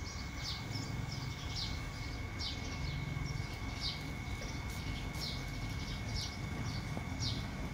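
A small bird chirping over and over in short, quick falling notes, over a steady low background rumble and a faint steady high tone.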